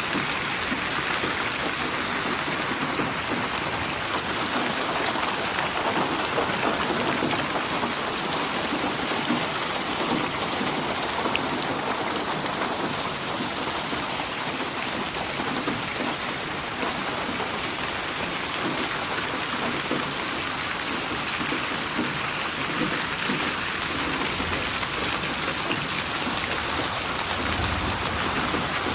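Steady rain falling and pattering on surfaces, with a brief low rumble near the end.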